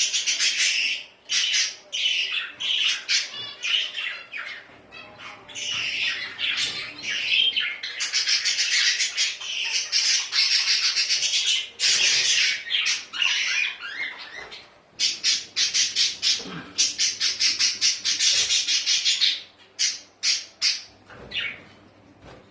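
Birds squawking in long runs of rapid, harsh, chattering calls, with a few short pauses, thinning out and stopping near the end.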